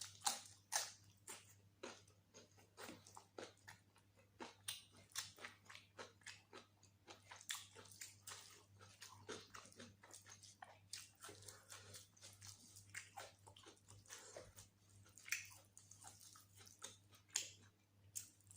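A person chewing and biting mutton curry and rice, close-miked: irregular wet clicks and crunches several times a second.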